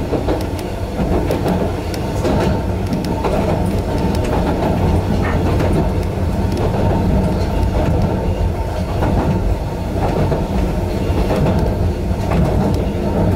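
Narrow-gauge 260 series electric railcar running along the line, heard inside the driver's cab: a steady rumble with now and then a click of the wheels on the rails.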